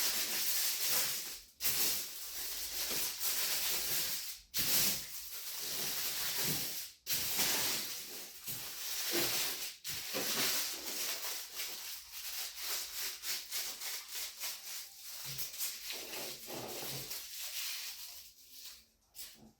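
Sheet of aluminum foil crinkling and rustling as it is rolled up by hand, with a few brief pauses; it dies down near the end.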